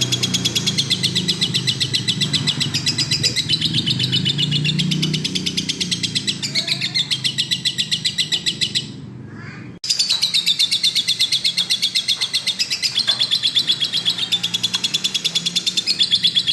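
Lovebird in full song: a long, fast run of evenly repeated shrill chirps, several a second. It drops out for about a second just before the middle, then starts again abruptly.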